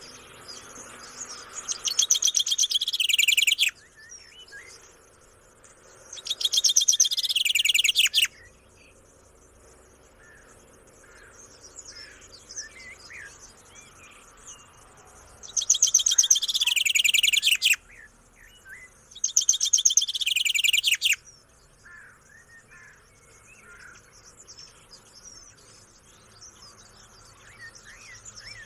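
A parrot calling in four loud bursts of about two seconds each, every burst a fast, rapidly repeated screech. Faint chirps of other birds come in between.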